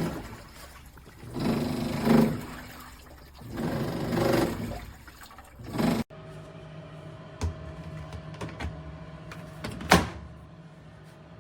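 Top-loading washing machine churning water in its tub, the wash swishing in surges about every two seconds. About six seconds in it gives way suddenly to a steady motor hum with a few light clicks and one sharp click near the end.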